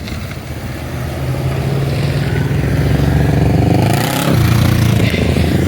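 A car accelerating hard past, its engine note getting louder and rising in pitch, with a gear change about four seconds in before it pulls again.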